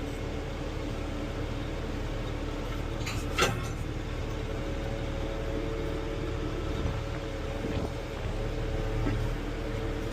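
Tractor engine running steadily under load, with a single sharp pop about three and a half seconds in.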